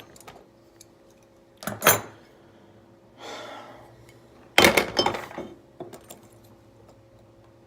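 Small metal hard-drive parts being handled: a clink about two seconds in, a short scrape, then a louder clatter of knocks about halfway through, with a few light clicks after it.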